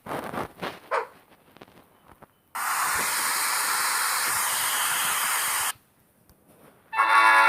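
A steady, even hiss lasting about three seconds that starts and cuts off suddenly, like a spray or steam release sound effect. Near the end a loud, steady buzzing tone begins.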